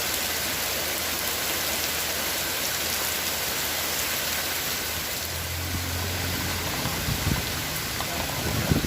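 Steady rain falling, an even hiss with no let-up. A few short dull thumps come near the end.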